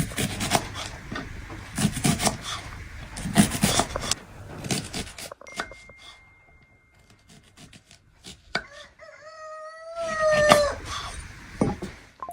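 A run of sharp knocks for the first few seconds, then a rooster crows once, a single call of about two seconds near the end.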